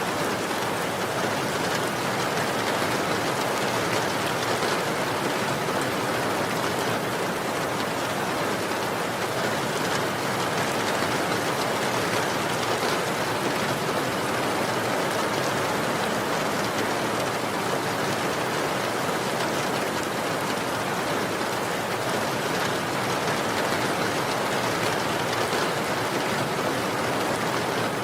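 Steady rain falling, a constant even hiss of many drops with no thunder or breaks.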